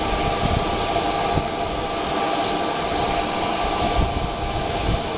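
Steady whine and rushing hiss of a parked jet's turbine running, with irregular low rumbles on the microphone.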